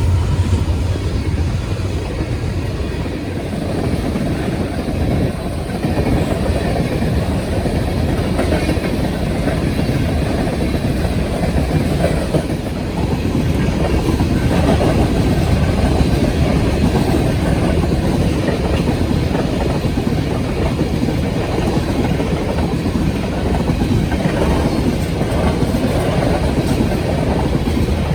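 A train passing on the rails, its wheels rumbling steadily.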